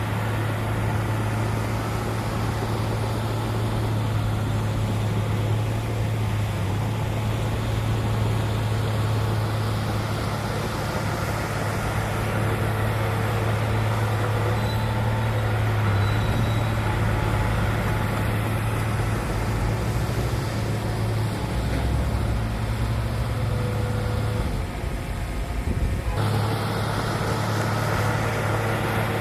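Heavy diesel engine of earthmoving machinery at a stone-fill site, running steadily under load. There is a brief dip in the engine note about three-quarters of the way through before it picks back up.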